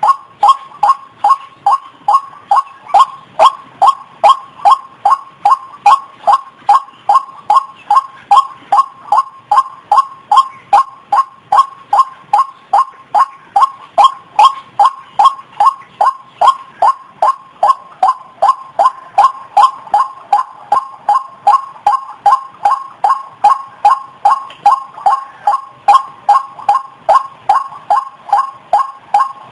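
White-breasted waterhen calling: an unbroken, evenly paced series of short, pitched calls, about two a second.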